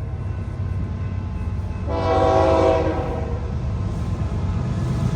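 Diesel freight train approaching with a steady low engine rumble, and one horn blast lasting about a second that starts about two seconds in.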